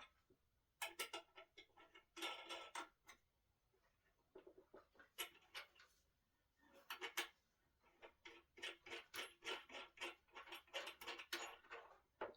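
Faint runs of light, rapid clicks, the longest in the second half at about four or five a second: a fastener being turned with a hand tool while a solid-wood dining table is assembled.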